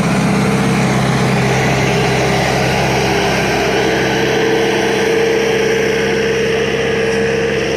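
A nearby engine running steadily at idle, loud and noisy. A steady tone in its sound grows stronger about halfway through.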